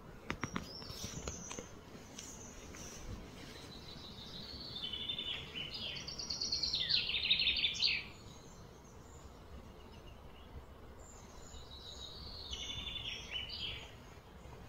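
A bird singing: runs of quick, high, warbling phrases that step up and down in pitch, starting about four seconds in and growing loudest near eight seconds, with a shorter run near the end, over steady outdoor background noise. A few sharp clicks sound in the first couple of seconds.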